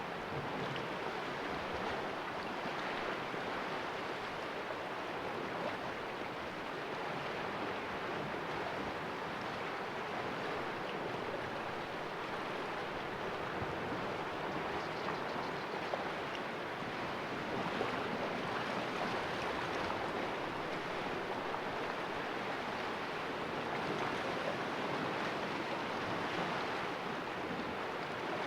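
Sea waves washing against the rocks of a small cove: a steady, even wash of water with no single breaker standing out.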